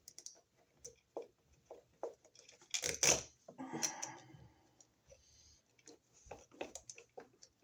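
Handling noise of a wall receptacle and its wires being folded and pushed into an electrical box: scattered light clicks and scrapes, with one louder scraping rustle about three seconds in.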